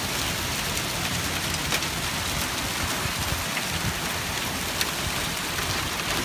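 Heavy rain mixed with hail falling steadily. Now and then a single sharp tick stands out as a hailstone strikes a hard surface.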